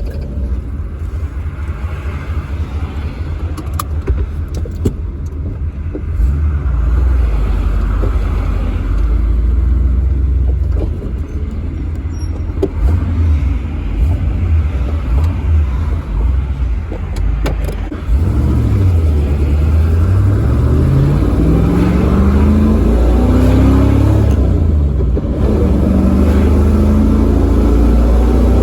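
Chevrolet V8 in a Range Rover, breathing through a Walker Quiet-Flow muffler, running under load while towing about 2.5 tonnes. It starts as a steady low rumble, then about two-thirds of the way in the engine note climbs steadily as it accelerates. It dips briefly, as at a gear change, and climbs again.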